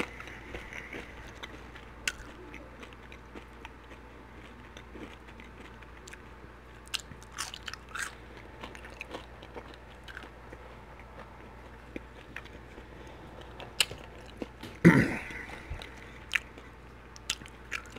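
Close-miked chewing of Flamin' Hot Cheetos–crusted fried halibut, with many small wet mouth clicks and smacks. About fifteen seconds in there is one brief, louder mouth noise.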